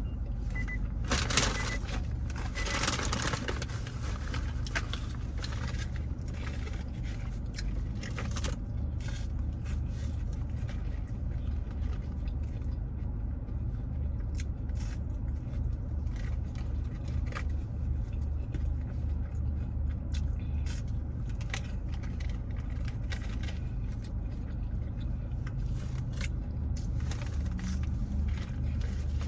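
Steady low rumble of a car's idling engine heard inside the cabin, with rustling and scraping between about one and three seconds in and a few faint clicks afterwards.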